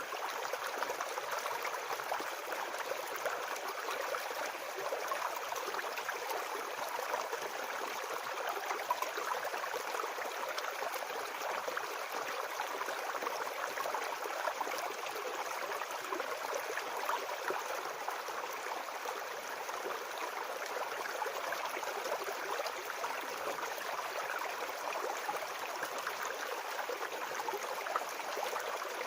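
Small forest brook babbling: a steady, even rush and burble of running water over stones.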